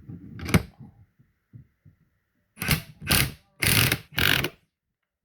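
Impact wrench driving the screw of a ball joint press in four short trigger bursts, pressing a wheel bearing into an ATV steering knuckle. A sharp metal click about half a second in, with light knocks as the press takes up.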